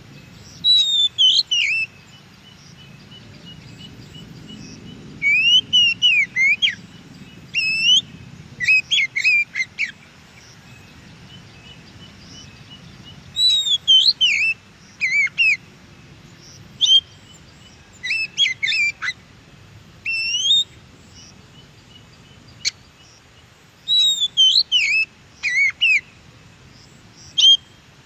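Oriental magpie-robin (kacer) singing: short phrases of quick, sweeping whistles and chirps, rising and falling in pitch, with pauses of a few seconds between phrases.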